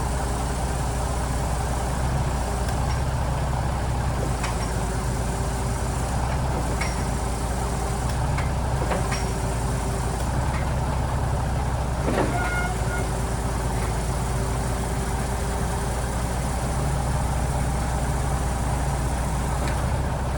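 Scania 94G 300's inline-six diesel engine running steadily at a low, even speed. A faint whine comes and goes over it, and a few light clicks are heard, the sharpest about twelve seconds in.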